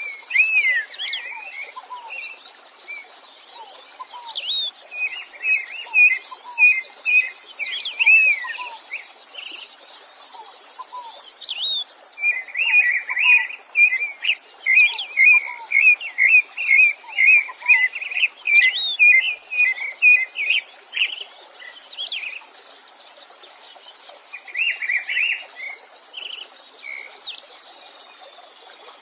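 Songbirds singing: phrases of quick, bright chirping notes with short pauses between them, the longest and densest run about halfway through. Softer, lower short whistles come now and then underneath.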